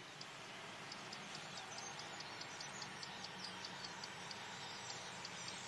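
A large flock of birds calling faintly: many short, high chirps overlapping irregularly over a steady background hiss.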